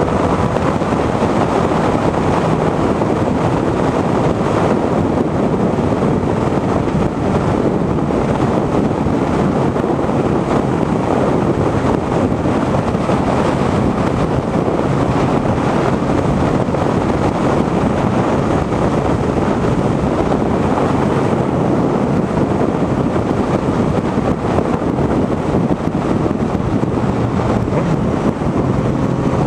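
Motorcycle on the move at road speed: heavy wind noise on the microphone over a steady engine drone, with the engine note rising near the end.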